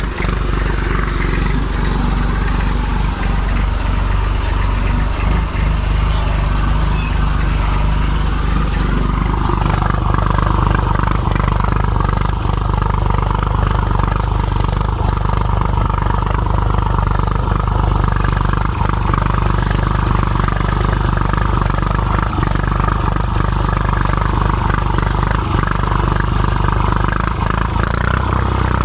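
IMT 539 tractor's three-cylinder diesel engine running steadily while pulling a harrow. About a third of the way in, its note changes and grows a little louder.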